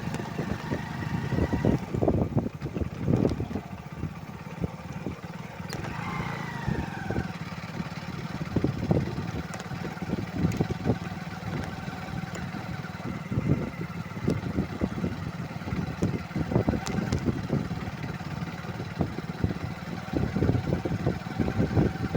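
Motorcycle engine running steadily, with frequent irregular thumps and knocks.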